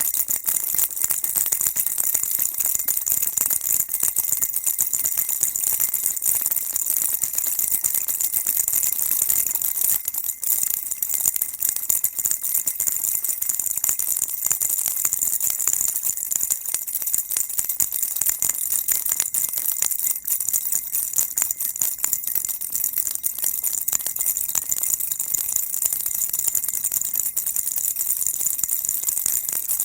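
Baby rattle shaken continuously, a dense, steady high-pitched jingling rattle with no pauses.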